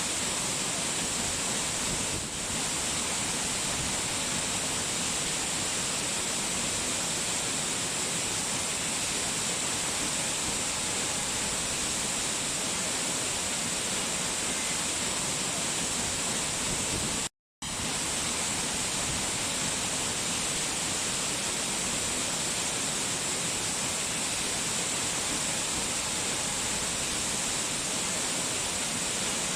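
Steady, even hiss of falling water from a relaxation rain-and-waterfall recording. It cuts out completely for a split second about seventeen seconds in, then resumes unchanged.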